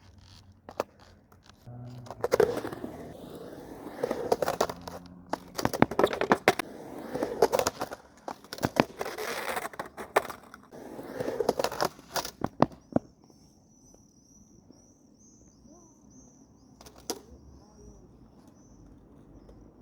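Skateboard rolling and grinding, with many sharp clacks of the board and wheels hitting the ground, for about the first thirteen seconds. Then it goes much quieter apart from a faint, high, repeated chirping and one more sharp clack.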